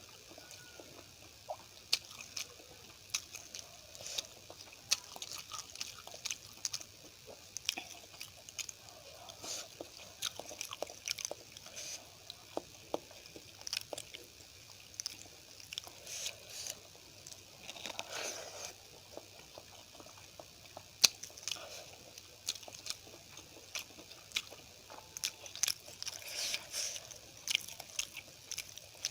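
Close-miked chewing and eating of a meal of poori, rice and curry: many short, irregular mouth clicks and bites.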